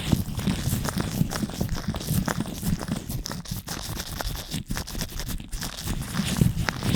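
Latex-gloved hands rubbing and scratching directly on a microphone: a continuous close-up crackling rustle made of many quick scrapes and clicks, heavy in the low end.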